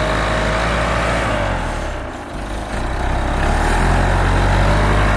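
Backhoe's diesel engine running under load as the bucket is worked, easing off about two seconds in and building again near the end, with a faint whine that rises and falls. The hydraulic servo is not responding; the crew suspect it is broken or short of oil.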